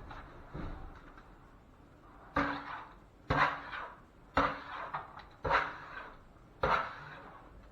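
A dog barking, single barks about once a second.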